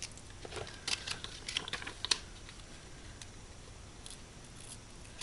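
Small hard craft pieces, such as studs or gems, clicking and rattling as they are handled: a quick run of light clicks through the first two seconds, then a few faint ticks and one sharper click at the end.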